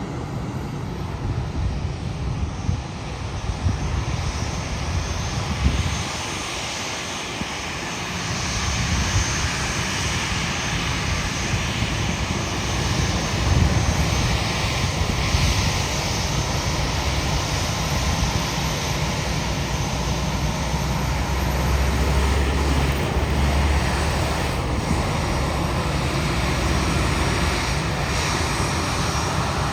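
Airbus A319 jet engines running at taxi power as the airliner taxis: a steady rush over a low rumble, with a thin high whine, growing a little louder after about eight seconds.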